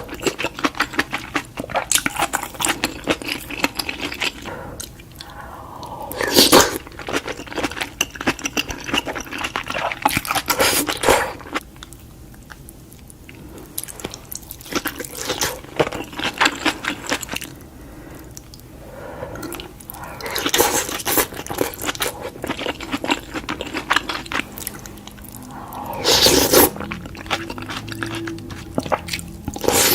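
King crab being eaten close to the microphone: shells cracking and crunching, and crab meat chewed, in a dense run of crackles and clicks that grows louder at several points.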